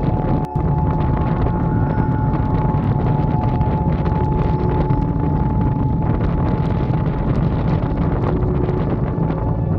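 Harley-Davidson Dyna's V-twin engine running steadily on the move, with wind rushing over the camera microphone. A brief drop in the sound about half a second in.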